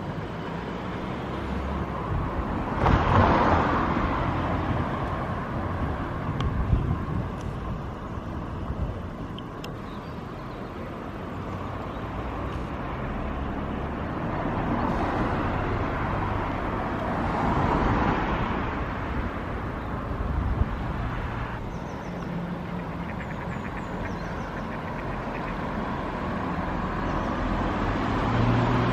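Road traffic: a motor vehicle passes about three seconds in and another swells past around the middle, over a continuous rumbling road noise.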